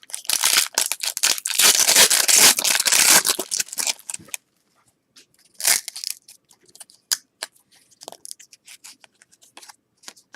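Trading-card pack wrapper being torn open and crinkled for about four seconds, then scattered light clicks and taps of cards being handled.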